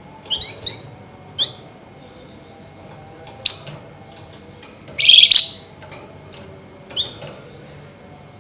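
Songbird known to Indonesian bird-keepers as the flamboyan, calling in separate high-pitched bursts: a quick run of chirps at the start, single sharp chirps, and a louder, harsh chattering burst about five seconds in.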